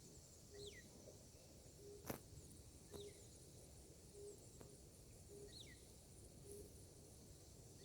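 Faint animal calls: a short low note repeated about once a second, and a thin descending chirp every two to three seconds. A single click about two seconds in.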